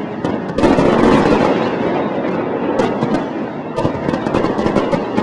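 Aerial fireworks going off in a dense barrage: overlapping booms with many sharp cracks and crackles, heaviest about a second in.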